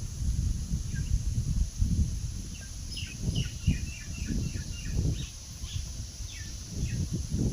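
Small birds calling: a quick run of short, falling chirps a few seconds in, with a few single chirps after it. Under them runs an uneven low rumble, louder than the birds, and a steady high hiss.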